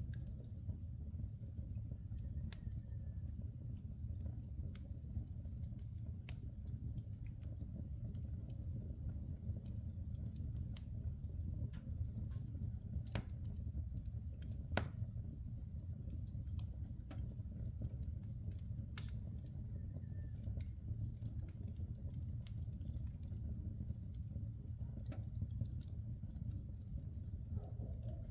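Wood logs burning in an open fireplace, crackling with irregular small pops and snaps over a steady low rumble of the fire, with two louder pops about halfway through.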